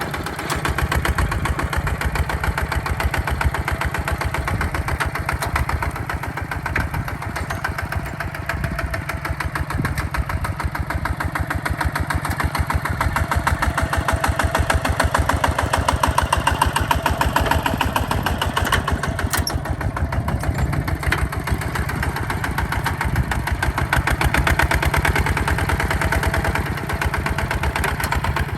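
Hinota HG Gold 155 DI walking tractor's single-cylinder diesel engine chugging steadily while plowing mud, its firing beats picking up about a second in.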